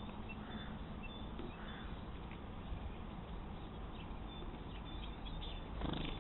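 Steady hiss from a trail camera's low-quality microphone, with a few faint short bird chirps and a brief louder noise near the end.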